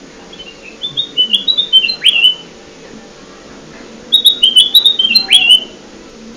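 Recorded song of a kutilang emas, a bulbul, played as a bird lure: two phrases of quick, bright, high notes, each ending in a swooping, drawn-out note, a couple of seconds apart over a low steady hum.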